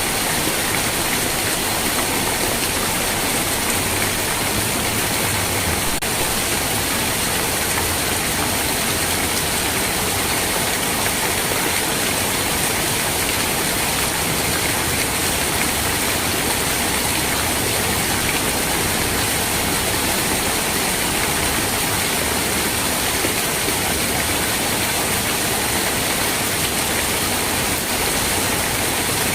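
Steady rain falling, a constant even hiss without distinct drops or breaks.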